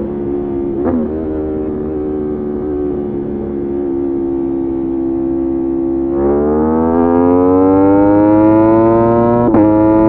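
Motorcycle engine running at a steady pace, dipping briefly about a second in, then revving up gradually from about six seconds in, with a short break in the revs near the end like a gear change.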